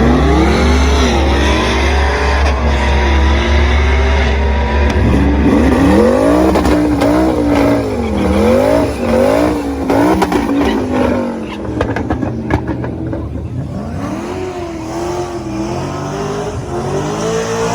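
A high-performance car engine revving, its pitch climbing and falling over and over, with a series of quick rev-ups and drops about halfway through. It is loudest in the first half and settles into softer, wavering revs near the end.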